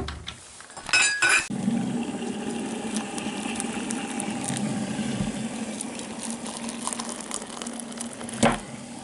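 Crockery clinking, then a steady rushing hum with faint held tones for about seven seconds, ending with a knock.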